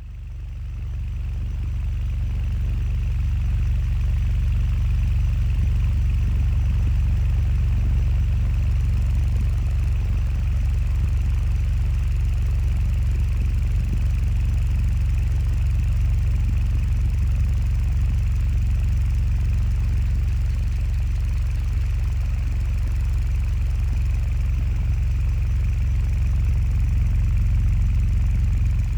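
Restored ceiling fan running: a steady motor hum and whir that builds over the first two or three seconds as it spins up, then holds level.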